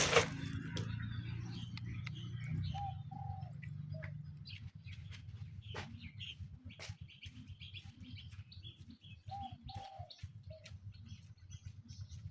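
A dove cooing the same short phrase twice: two held low notes and a shorter third, repeated about six seconds later. Small birds chirp higher up, with scattered sharp clicks and a steady low hum underneath.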